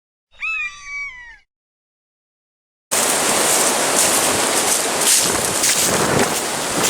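A single falling, pitched cry about a second long, swelling twice, then after a second and a half of silence a loud, steady, hissing rush of noise that starts abruptly and carries on.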